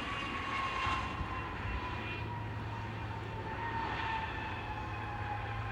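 Airplane engines passing by, a steady rumble with a whine that slowly falls in pitch.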